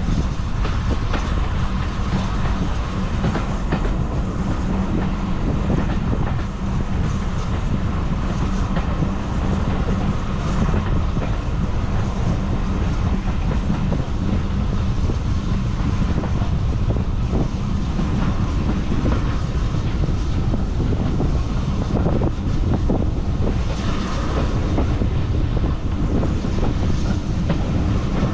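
Heritage railway carriage running along the line, heard from inside: a steady rumble of the wheels on the track.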